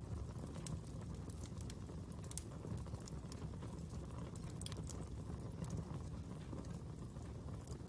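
Fire burning: a steady low rumble of flames with irregular sharp crackles and pops.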